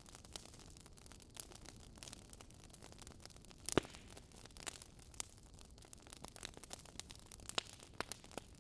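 Campfire wood crackling: irregular small pops and snaps over a faint hiss, with one louder snap near the middle.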